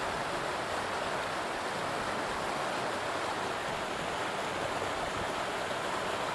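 Steady rushing of a flowing stream, an even water sound with no breaks.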